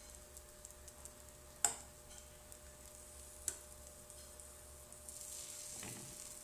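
Crepe batter sizzling faintly in an oiled frying pan, with small crackles, swelling a little near the end. Two sharp clicks stand out, one less than two seconds in and one about halfway.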